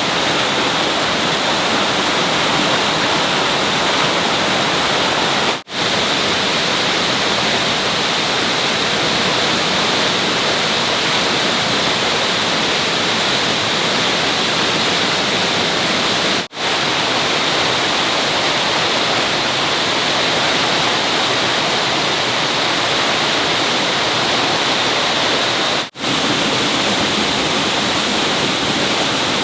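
Steady rushing noise of flowing water, cutting out for a split second three times.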